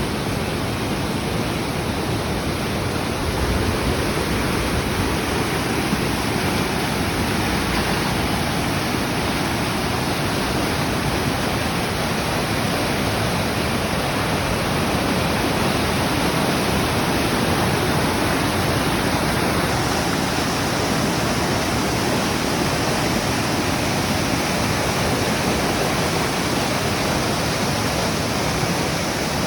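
Mountain stream swollen with floodwater after heavy typhoon rain, rushing loudly in a steady roar.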